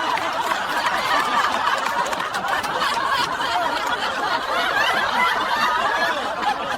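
A crowd of many people laughing together, a dense, steady burst of laughter that cuts off suddenly at the end.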